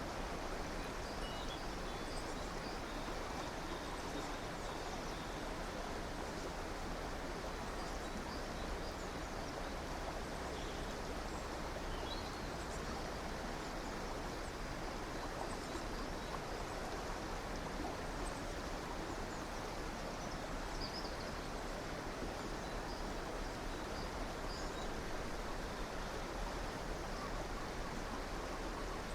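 River water running steadily, with faint, scattered small bird chirps above it.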